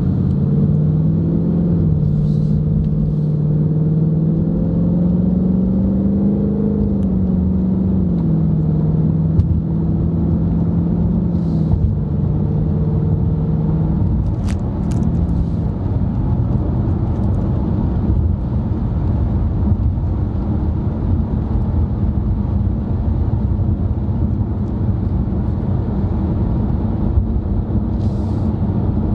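Car driving, heard from inside the cabin: the engine's hum rises a little in pitch and falls back, then fades about halfway through into a steady low rumble of road and tyre noise.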